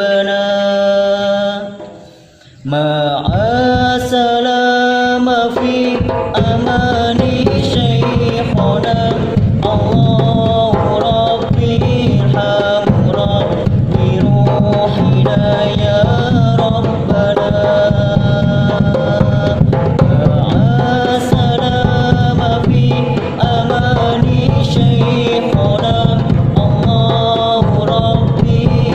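Hadroh ensemble of frame drums and darbuka playing a dense, steady rhythm under a melodic line. The music drops away briefly about two seconds in, then the drums come in and fill out a few seconds later.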